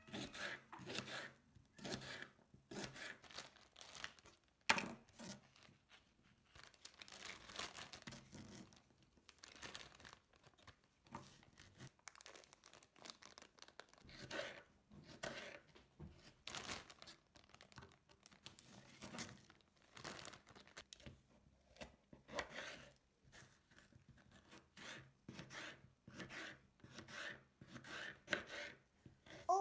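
Faint, irregular rustling and crinkling, with scattered taps and clicks of things being handled.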